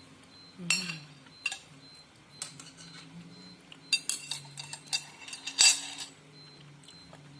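Spoon and fork clinking and scraping against a bowl of noodles and meatballs: a scattered series of sharp clinks, busiest and loudest about four to six seconds in.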